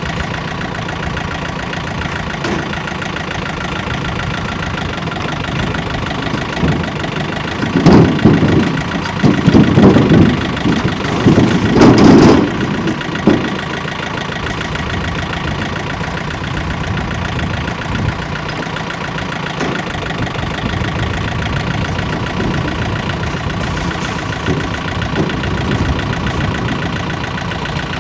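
Engine of a machine running steadily. About eight seconds in comes a burst of loud, irregular knocking and clattering lasting several seconds, the loudest sound here.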